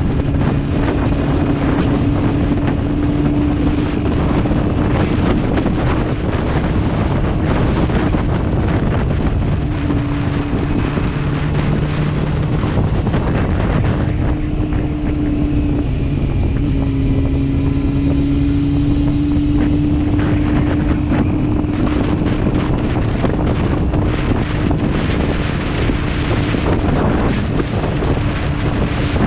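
Motorcycle cruising at a steady speed: an even engine hum holding nearly one pitch, with a slight dip around the middle, under heavy wind noise on the microphone.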